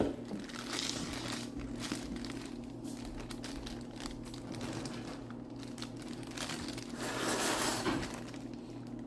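Plastic cake-mix bag crinkling and rustling as it is handled, with a louder stretch of rustling about seven seconds in.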